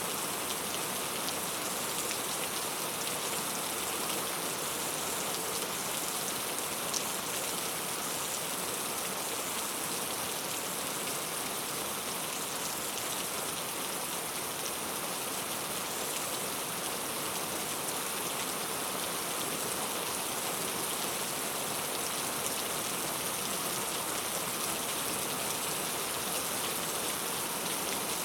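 Steady rain falling, an even hiss with scattered individual drops landing on a surface.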